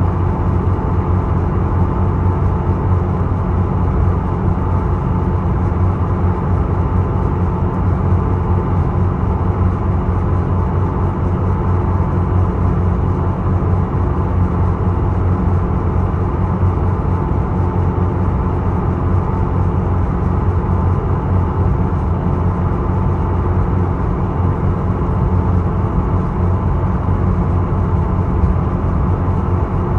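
Steady drone of the ferry Isokaze's engine heard on board: an even low hum with a few constant tones over it, unchanging throughout.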